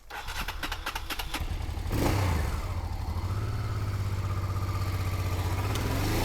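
Maxi-enduro motorcycle engine ticking over with a rhythmic clatter, then revving up about two seconds in and pulling steadily under load in first gear.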